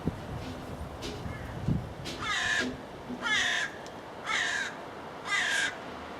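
A bird calling four times, about a second apart, each call slightly falling in pitch.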